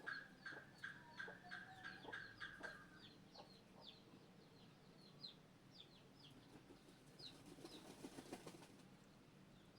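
Faint, high peeping of a hatching Muscovy duckling: short downward-sweeping peeps, about three a second, that grow sparser after about three seconds. A brief scratchy rustle comes near the end.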